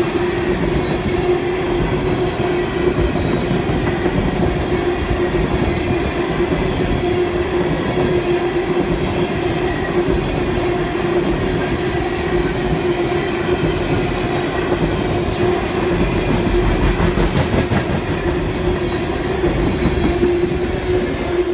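Freight train cars rolling past at close range, wheels clacking over the rail joints, with a steady tone running under the rumble. The sound drops away right at the end as the train clears.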